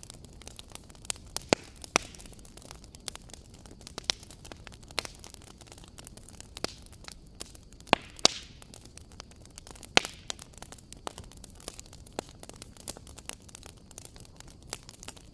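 Wood fire crackling in a fireplace: a steady scatter of small sharp snaps and pops over a soft hiss. A few louder pops stand out, two close together about eight seconds in and one about ten seconds in.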